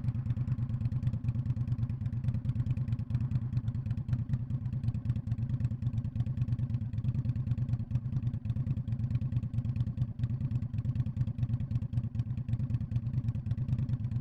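Indian Scout Bobber's liquid-cooled V-twin running steadily through a Freedom Performance Radical Radius exhaust, giving a regular low exhaust pulse that neither rises nor falls.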